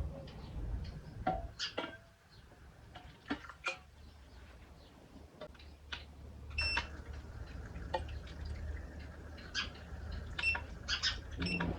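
Rain-cloud humidifier running: a steady low hum with irregular drip-like ticks and taps of water falling, and the hum cuts off near the end.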